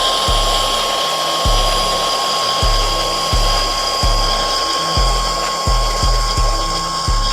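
Milwaukee Fuel deep cut cordless bandsaw running with a steady high whine as it cuts, with a low knock repeating roughly once a second.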